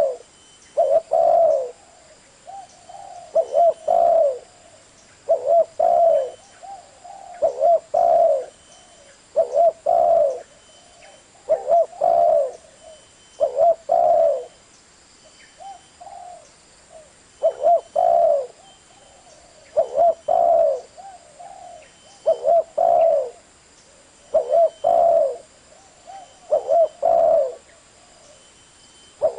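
Spotted dove cooing: a short phrase of low coo notes repeated about every two seconds.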